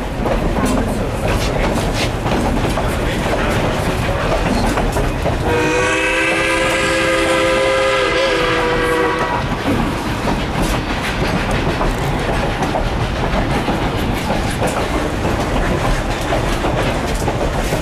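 Narrow-gauge steam train rolling along with a steady clatter of wheels over rail joints. About five seconds in, the locomotive's steam whistle sounds one long chord-like blast of nearly four seconds.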